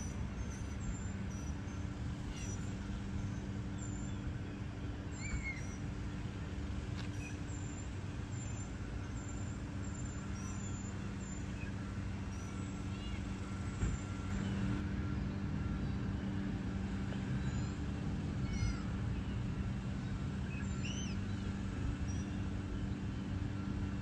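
Scattered short, high bird chirps and whistles over a steady low hum.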